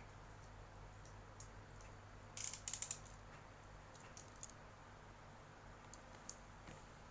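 Packaging being handled during an unboxing: a short burst of sharp crackling clicks about two and a half seconds in, with a few scattered single clicks before and after, over a faint steady hum.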